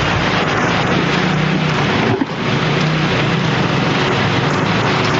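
A loud, steady rush of noise with a low engine drone underneath, like wind and engine noise on a moving vehicle, dipping briefly about two seconds in.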